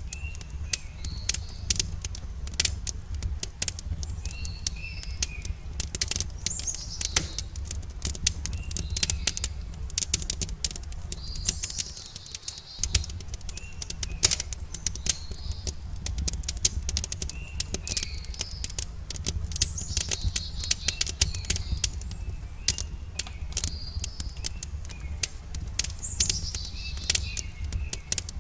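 Wood fire crackling with dense, irregular sharp pops over a low steady rumble, while small birds chirp in short phrases every few seconds.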